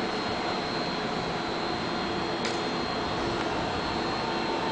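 EMU700 electric multiple unit running slowly into the station: a steady hum and hiss with a faint steady high tone.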